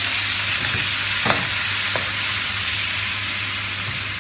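Chicken meatballs sizzling steadily in butter and oil in a nonstick wok, with white wine vinegar just added to the hot pan, while a spatula stirs them and knocks lightly against the pan twice.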